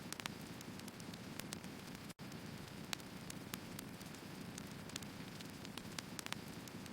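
Firewood burning: a steady low hiss of the fire with frequent sharp, irregular crackles and pops from the wood. The sound cuts out for an instant about two seconds in.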